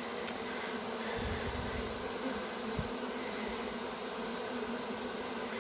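A honey bee swarm buzzing in a steady, even drone at close range.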